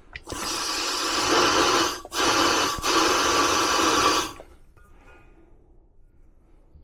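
Nitrogen blown through an air conditioner's condensate drain line to clear a suspected clog: a loud hiss of rushing gas in two blasts of about two seconds each, with a brief break between them.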